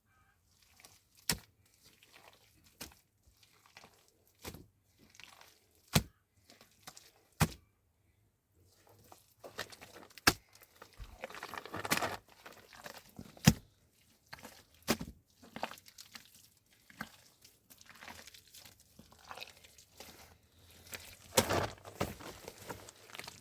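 Irregular sharp knocks and clacks, with stretches of rustling and crinkling in between, like objects being handled and moved about.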